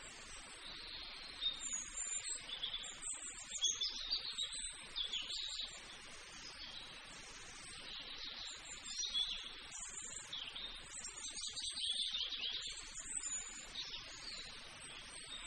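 Small birds chirping and twittering in quick, repeated calls, in clusters that come and go.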